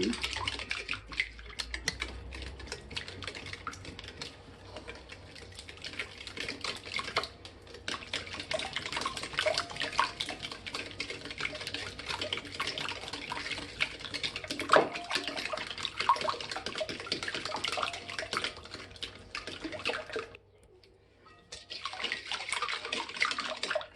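Liquid cake batter of eggs, sugar, milk and lemon juice being whisked in a bowl: a quick, irregular splashing and clicking against the bowl. It stops briefly about twenty seconds in, then starts again.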